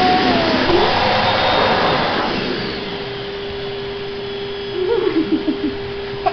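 Vacuum cleaner running: a steady hiss that drops about halfway through to a lower, steady hum with one held tone.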